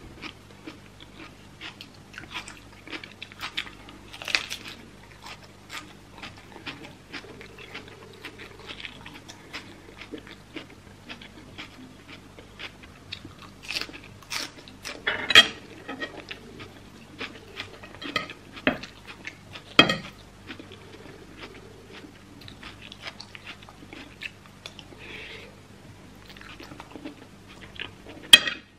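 Close-miked biting and chewing of crisp raw vegetables: a stream of small wet crunches and mouth sounds, with a few louder crunches scattered through. A faint steady low hum runs underneath.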